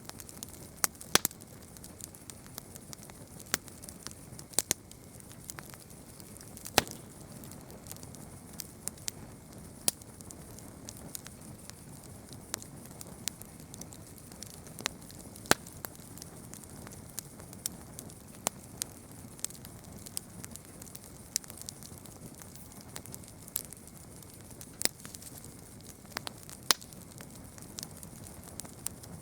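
Campfire burning and crackling: irregular sharp pops and snaps of burning wood, some much louder than the rest, over a steady low hiss of the flames.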